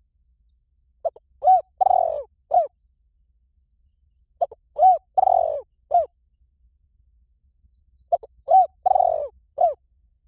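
Spotted dove cooing: three phrases about three and a half seconds apart, each of four short coos with the third note drawn out the longest.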